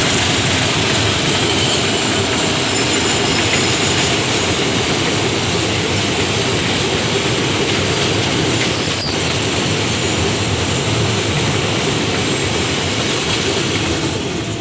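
A train passing close by at speed, a loud steady rumble and rattle of wheels on the rails, beginning to fade right at the end as the train goes by.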